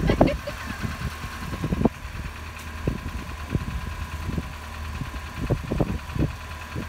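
A vehicle engine idling with a steady low rumble, with scattered short knocks and clicks.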